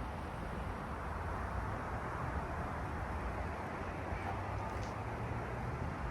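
Steady low rumble and hiss of outdoor background noise, swelling slightly in the middle.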